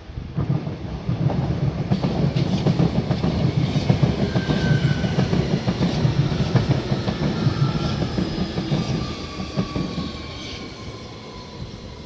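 NS International IC Direct train with a Bombardier TRAXX electric locomotive passing at full speed: a loud rumble with rapid, rhythmic wheel clacks, rising sharply at the start and fading over the last couple of seconds. Faint whining tones slide down in pitch as the train pulls away.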